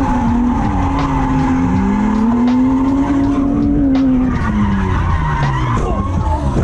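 Drift car engine revving up and down through a slide, with tyres squealing continuously.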